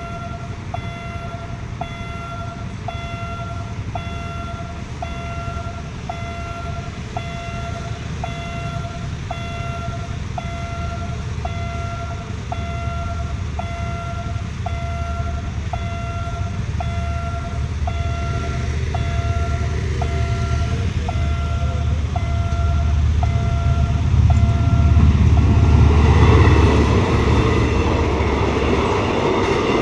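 Level crossing warning bell beeping about once a second as the State Railway of Thailand's Hitachi diesel locomotive 4512 approaches, its engine rumble growing steadily louder. The beeping stops about 26 seconds in as the train reaches the crossing, and the noise of the locomotive and carriages running past takes over.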